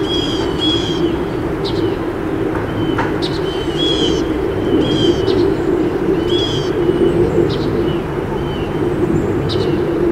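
Outdoor ambience of songbirds chirping and calling in short, repeated high notes, a few every couple of seconds, over a steady low hum.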